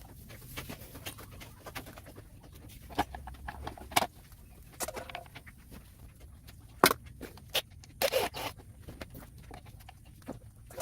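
Scattered clicks, taps and short scrapes, as of small hard objects being handled, with the sharpest click about seven seconds in and a brief scraping rustle about a second later.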